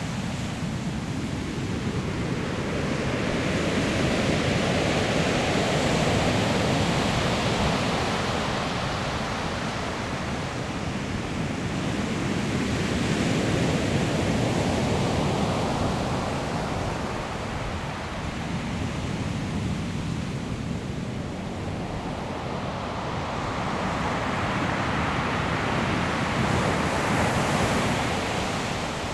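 Ocean waves breaking on a pebble shore, the surf swelling and ebbing in three long surges, with wind.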